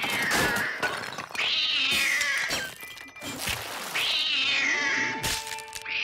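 Cartoon cat meowing loudly and insistently, about three long drawn-out meows, the cat demanding its blanket. Sharp knocks fall between the meows.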